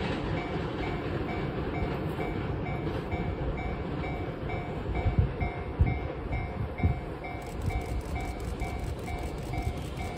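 Electric trains running on the line: a steady low rumble with heavier thumps midway as the 485 series 'Hana' train approaches, and clicks of wheels over rail joints growing clearer over the last few seconds. A two-tone electronic ding pulses about four times a second throughout.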